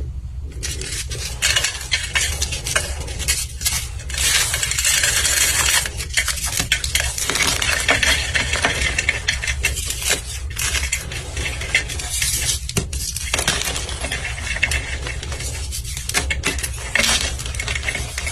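A dyed, dusty block being crunched and crumbled: dense, crackly crunching with many sharp clicks, in waves that swell and ease every second or two, over a steady low hum.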